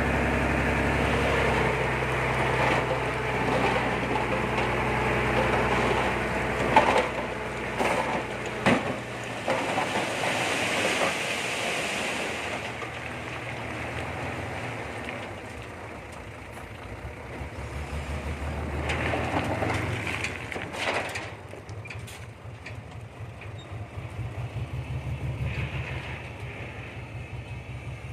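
Komatsu D20P bulldozer's diesel engine running as it works, its steady note changing about a third of the way through, with several sharp metallic knocks and a pulsing rhythm near the end.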